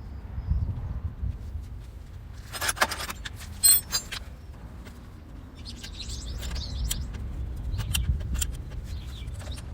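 Metal tools and parts clinking and rattling as they are handled, with a short metallic ring about three and a half seconds in, over a low rumble.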